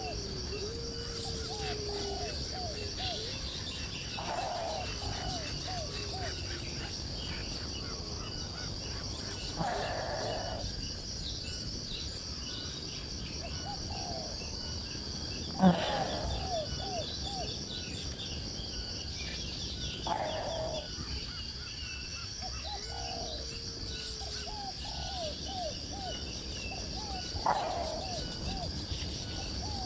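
A bird calling in repeated phrases, each a quick run of short falling notes, about five times, over a steady high-pitched drone of insects.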